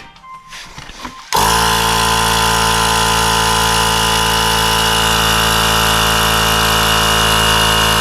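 Portable air pump switching on about a second in and running steadily with a constant motor hum, inflating a pit bike's popped front inner tube.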